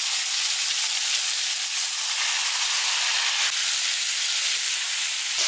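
Sliced tomatoes sizzling in hot oil and spices in a kadhai, a loud, steady hiss.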